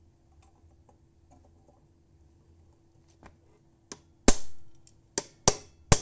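Hammer blows on metal, driving out a rivet from a motorcycle exhaust: after a few quiet seconds of faint clicks, about six sharp strikes come in the second half, the louder ones ringing briefly.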